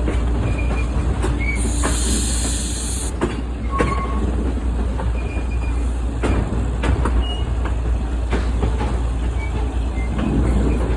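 Train rolling on the track: a steady rumble with scattered clicks from the wheels over the rails and several brief high wheel squeals. A short burst of hiss comes about two seconds in.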